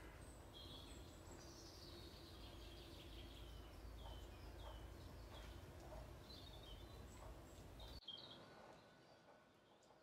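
Wild birds singing faintly in trees, with short chirps and quick falling notes and one longer descending warble a little after the start. Under them a low rumble on the microphone runs until it stops abruptly about eight seconds in.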